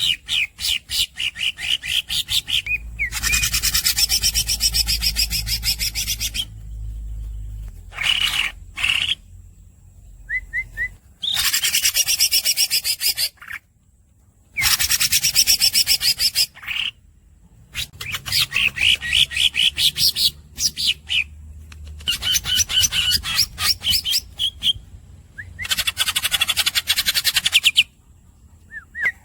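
Green leafbird (cucak ijo) singing in loud bursts of fast, high repeated notes: long rapid rolls lasting a few seconds each, alternating with shorter chattering phrases and brief pauses.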